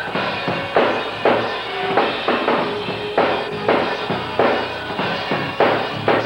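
Live gospel music with a drum kit keeping a steady, driving beat, about two heavy hits a second over sustained band instruments.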